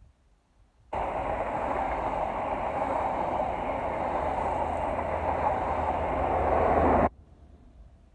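LNER InterCity 125 high-speed train moving past: Mark 3 coaches rumbling over the rails and the diesel engine of the Class 43 power car at the rear, getting a little louder as the power car comes near. The sound starts suddenly about a second in and cuts off sharply about seven seconds in.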